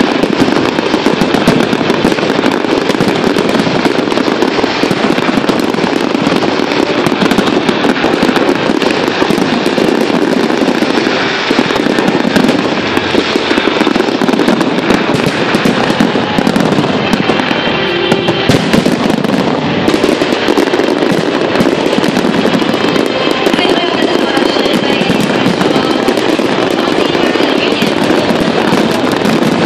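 A fireworks display: dense, continuous crackling and popping of many shells bursting, with no pauses.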